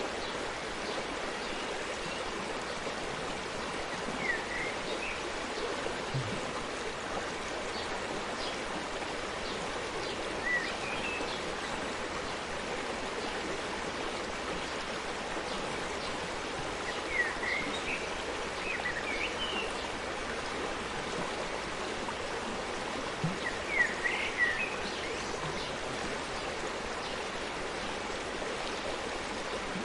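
Forest stream running steadily, with a bird chirping briefly a few times.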